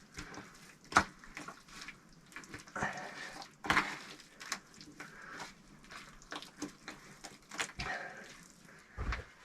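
Bricklaying with wet clay mortar: scattered sharp knocks and short wet scraping swishes as the clay is worked and bricks are set.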